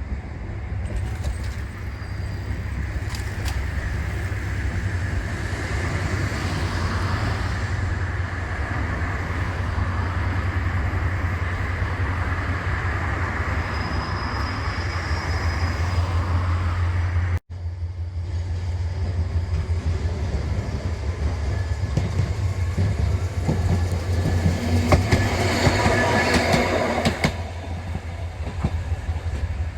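A rail vehicle running on the tracks with a steady low rumble. Its wheels click over rail joints, loudest about 25 to 27 seconds in. The sound cuts out for an instant about 17 seconds in.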